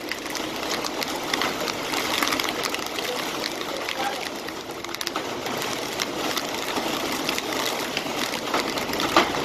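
Steady heavy rain: a dense hiss of falling water sprinkled with many small, sharp ticks of drops.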